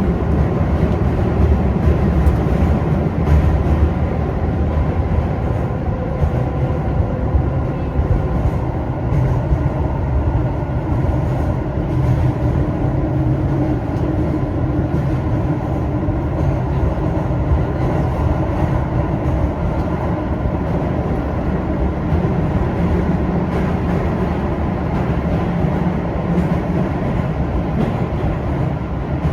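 Keio 9000-series train running at speed, heard inside an unpowered trailer car with no traction motors: a steady rumble of the wheels and bogies on the rails.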